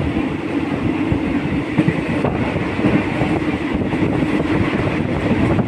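Passenger train running, heard from inside the carriage: a steady rumble of wheels on the rails with scattered clatter.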